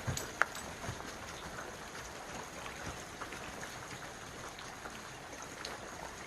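Steady rush of running water, with one sharp tick about half a second in and a few faint ticks after it.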